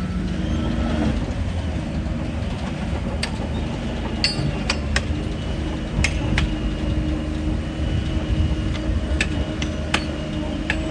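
Shantui DH17 crawler bulldozer's diesel engine running steadily, with scattered sharp metallic clinks and clanks from about three seconds in, typical of the steel tracks and undercarriage on the move.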